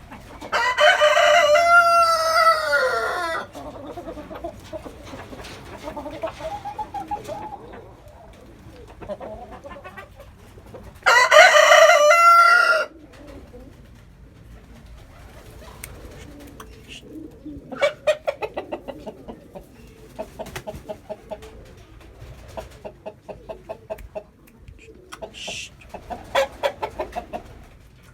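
A rooster crows twice: once at the start, with the call falling in pitch at its end, and again about eleven seconds in, each crow lasting two to three seconds. Later, hens cluck in quick runs of short calls.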